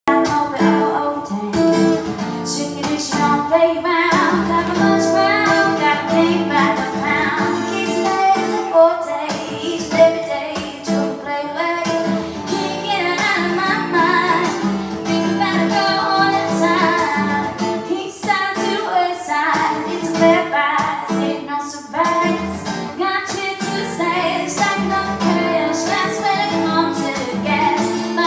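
A song with a woman singing over guitar accompaniment.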